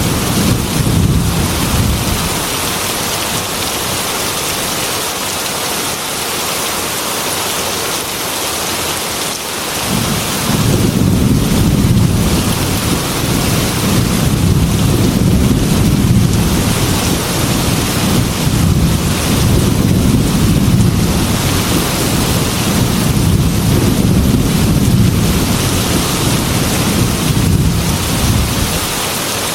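Heavy rain falling in a steady hiss, with low thunder rumbling for the first couple of seconds and again from about ten seconds in until near the end.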